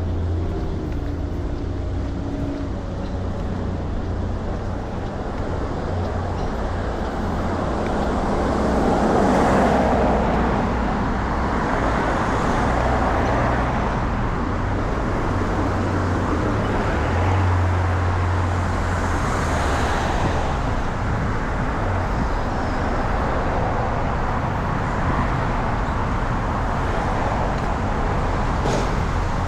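Street traffic: a steady rumble of cars and other road vehicles, with a louder car passing about a third of the way in and another about two-thirds of the way in.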